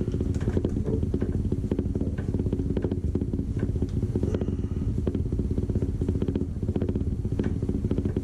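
A motor running with a steady, fast-pulsing drone, with faint light clicks over it.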